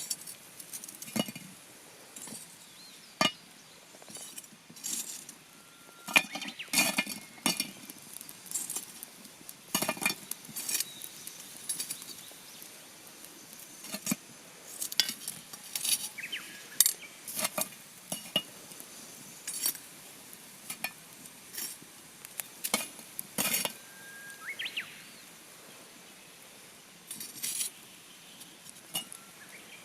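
Cooking utensils clinking and tapping against a metal pot in irregular sharp clinks, some with a brief ring.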